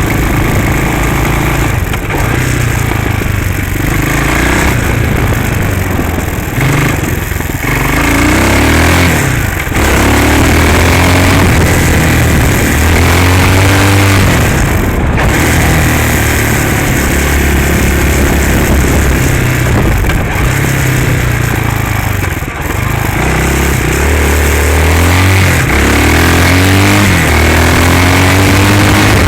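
Hawk 250cc dirt bike's single-cylinder four-stroke engine revving up and easing off repeatedly, its pitch climbing and dropping back many times.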